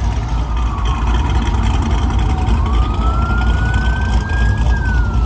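A siren wailing slowly over a loud low rumble. Its pitch falls for the first couple of seconds, rises for about two seconds, then starts to fall again near the end.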